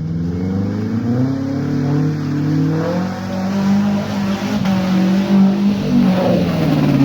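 Off-road 4x4's engine revving hard at full throttle. Its pitch climbs over the first three seconds, then holds high and strained.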